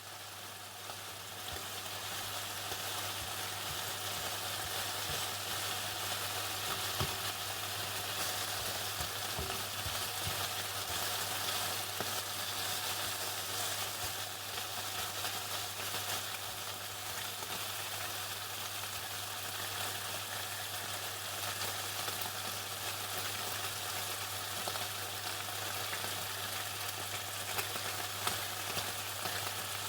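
Chicken frying in hot oil: a dense, steady crackle and sizzle that swells up over the first couple of seconds, with a low steady hum underneath.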